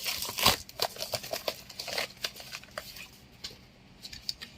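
Plastic packaging and bubble wrap crinkling and rustling in irregular bursts as a mailed package is unwrapped, loudest about half a second in.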